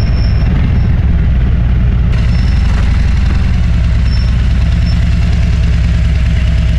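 Motorcycle engine running steadily at low revs, a loud, even low engine note.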